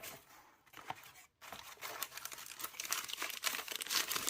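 Packaging being crinkled and torn open by hand. A few faint rustles come first, then a dense, fitful crackling from about a second and a half in.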